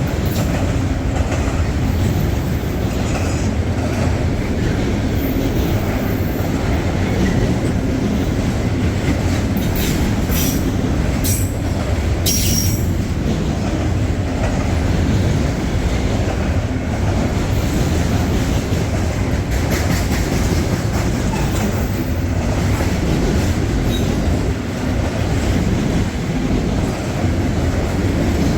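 Freight train cars rolling past on the rails in a steady, loud rumble, with wheel squeal. A few short, sharp high squeals come about ten to thirteen seconds in.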